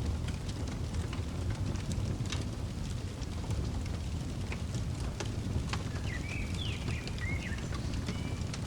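Fireplace crackling: scattered sharp pops over a steady low rumble. About six seconds in, a bird gives a short call of a few rising and falling chirps.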